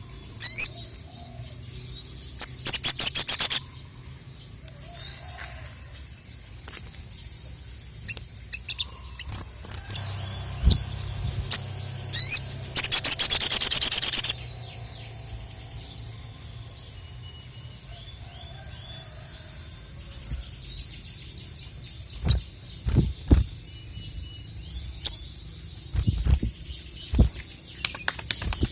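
Sogon (sogok ontong), a sunbird, singing in high, thin chirps, broken twice by a loud, very rapid trill lasting one to two seconds: once a couple of seconds in and again about halfway through. Near the end come several sharp knocks.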